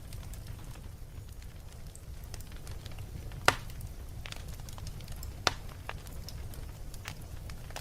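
Wood fire in a fireplace crackling, with a steady low rumble of the flames under scattered small clicks. Two sharp, louder pops of burning wood come about a third of the way in and just past the middle.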